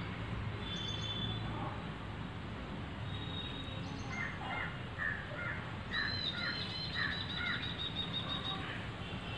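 Birds calling over steady outdoor background noise: a few short calls at first, then from about four seconds in a cluster of calls and a quick run of short repeated high chirps that ends near the close.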